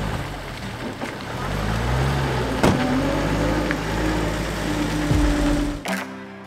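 Car engine running, its low rumble rising about a second and a half in and then holding steady. Music cuts in near the end.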